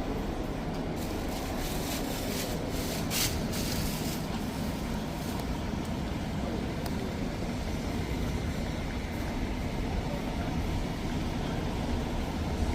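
Rainy city street noise: a steady low traffic rumble, with the hiss of a vehicle's tyres on the wet road rising and passing about three seconds in.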